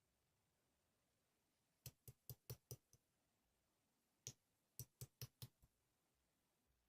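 Slime being pressed and worked with the fingers, giving quick sharp clicking pops: a run of about five, a single pop, then another run of about five.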